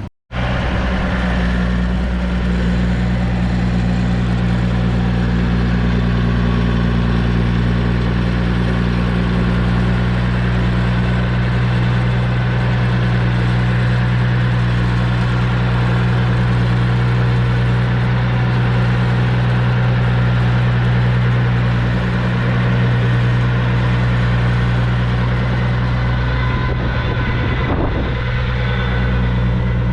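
1973 Massey Ferguson 1200's 5.8-litre six-cylinder diesel engine idling steadily.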